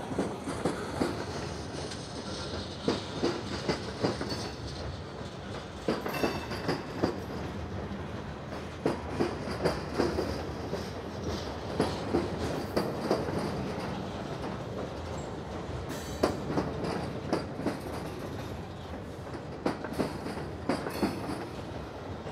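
Freight cars of a slow-rolling Norfolk Southern train passing close by: a steady rumble of steel wheels on rail, with clusters of clacks every few seconds as each car's wheel sets cross the rail joints.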